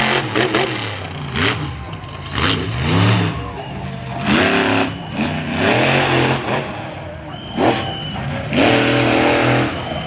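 Monster truck engines revving in repeated short blips, the pitch rising and falling again within a second each time, with a steadier high-revving stretch near the end.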